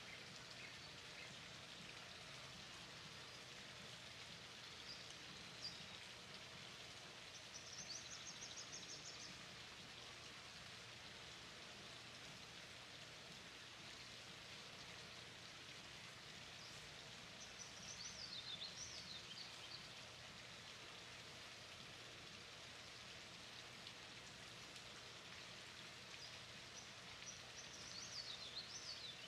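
Near silence: a faint steady outdoor hiss, with a few faint, high bird chirps. A quick trill comes about eight seconds in, and short falling chirps come in the middle and again near the end.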